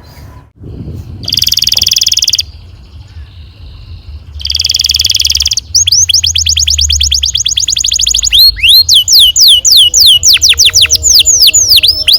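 Domestic canary singing: two short buzzing rolled trills, then a fast run of repeated notes, then a string of sharp downward-sliding whistled chirps near the end.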